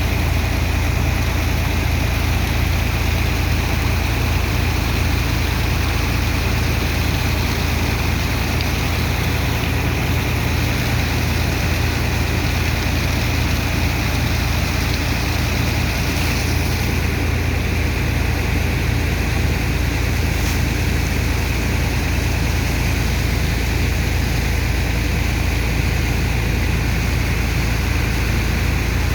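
Heavy engine of a sand-unloading dredger and its pump running steadily: a constant deep drone with an even hiss over it.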